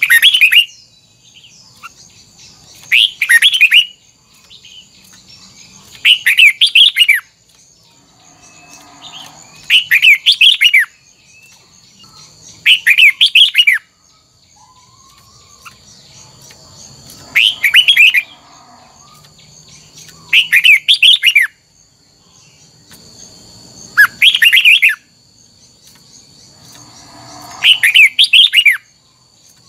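Red-whiskered bulbul singing loud, short patterned phrases, each about a second long, repeated evenly about every three and a half seconds. A steady high-pitched whine runs underneath.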